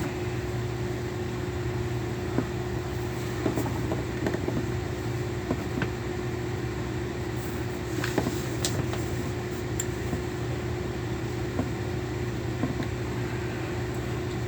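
A steady mechanical hum with an even hiss, like a fan or motor running, with a few faint clicks scattered through it.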